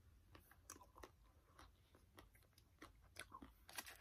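Faint chewing of a Klondike bar, its chocolate coating crunching in small irregular clicks.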